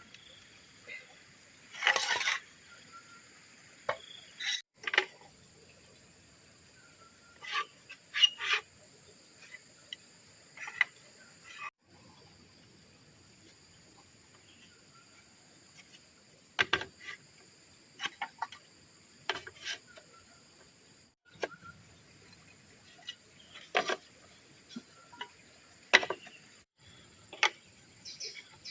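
Insects buzzing steadily at a high pitch, broken by brief gaps, with irregular sharp knocks and clicks over it, a couple of dozen over the span.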